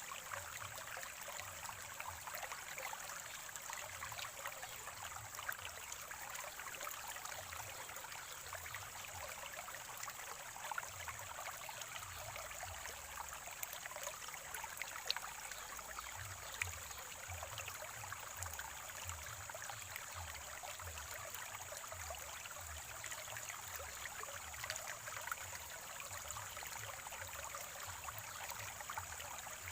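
Spring water trickling and gurgling steadily over stones, with small splashes and drips scattered through it.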